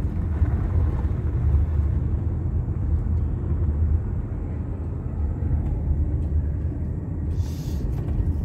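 Steady low rumble of a car driving along a road, heard from inside the cabin, with a brief hiss near the end.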